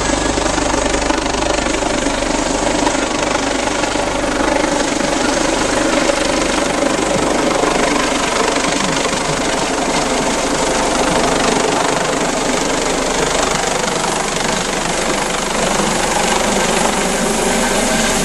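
Helicopter running close by: a loud, steady wash of engine and rotor noise.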